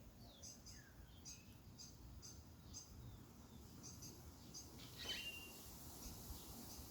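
Faint songbirds chirping: a run of short, high chirps repeating several times a second, with a few falling notes and a slightly louder chirp about five seconds in.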